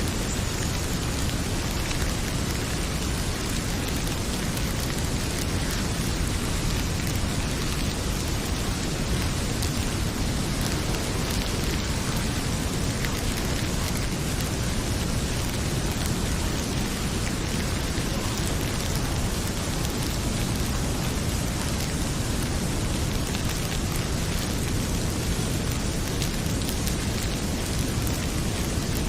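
Heavy rain pouring steadily, a dense even hiss with a deep low rumble, over the faint scattered crackle of a wood fire.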